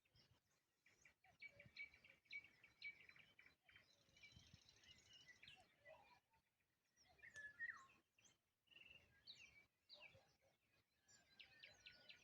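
Nightingales singing faintly: bouts of rapidly repeated notes, quick whistles and sweeping phrases, with short pauses between them.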